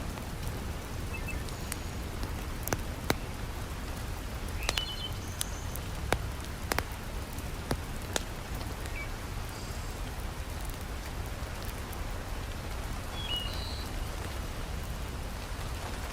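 Heavy rain falling steadily, with a dozen or so sharp pops and crackles from a wood fire scattered through it.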